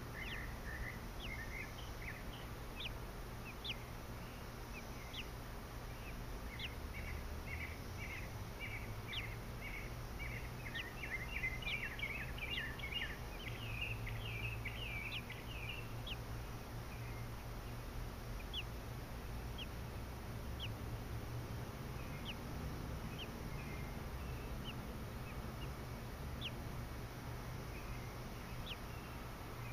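Small birds chirping: quick runs of high chirps that grow dense in the middle, then scattered thin peeps, over a steady low rumble of background noise.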